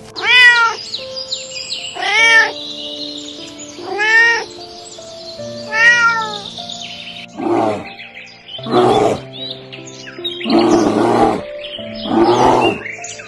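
Domestic cat meowing, four rising-then-falling calls about two seconds apart, followed from about halfway by four harsher, rougher calls, over background music.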